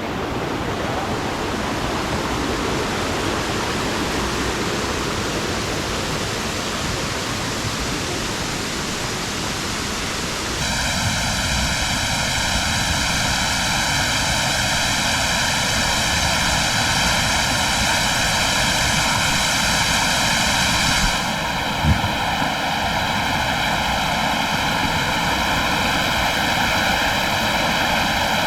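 Waterfall: a steady, loud rush of falling water. About ten seconds in the sound changes abruptly in character, and a single brief thump comes a little over twenty seconds in.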